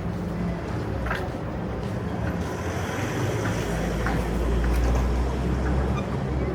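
A motor vehicle passing in street traffic: its engine rumble builds to a peak about five seconds in and then fades, with a faint high whine while it is closest.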